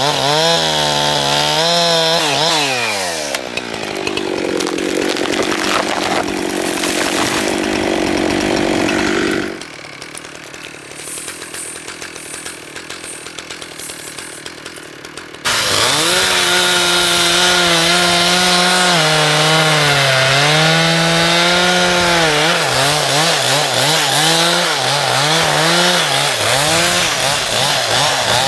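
Chainsaw engine running at high revs while cutting wood, its pitch repeatedly dipping and recovering under load. There is a quieter stretch in the middle, after which the saw comes back in suddenly at full volume.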